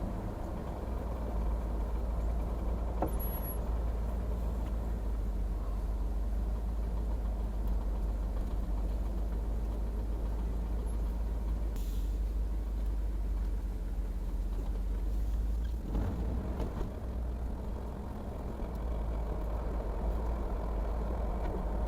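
Pickup truck driving, heard from inside the cab: a steady low engine and road rumble, with a brief knock about 16 seconds in.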